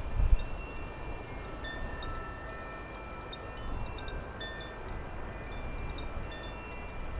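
Chimes ringing in a breeze: many overlapping clear tones that sound and fade irregularly. Low wind rumble on the microphone runs underneath, with a brief low bump just after the start.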